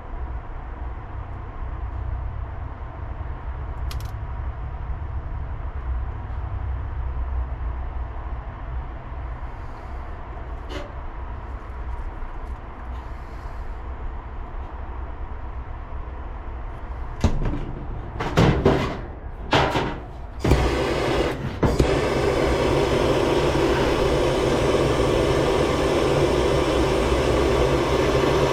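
A low steady rumble, then several short loud bursts, then a handheld torch flame burning with a steady hissing roar, as used to heat a cable connector for soldering.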